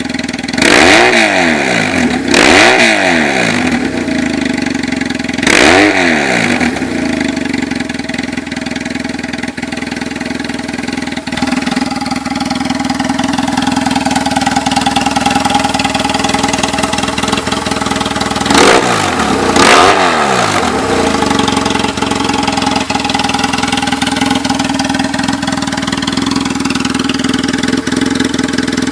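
2003 BMW R1150R's boxer twin through a straight-pipe exhaust on the original headers, idling between quick throttle blips. Three revs come in the first six seconds and two close together about two-thirds of the way through. Each rises sharply and falls straight back to idle.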